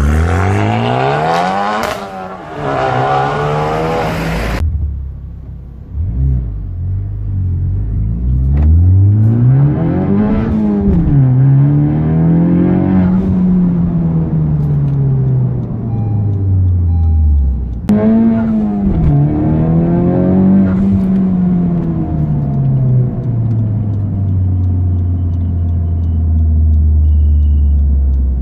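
Honda Civic Type R FK8's 2.0-litre turbo four-cylinder through an Armytrix valved aftermarket exhaust, revving up and dropping back several times as it accelerates through the gears, then settling into a steady drone near the end.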